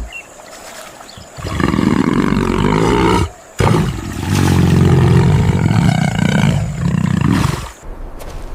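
A large wild animal roaring twice: a shorter roar, then a longer, louder one.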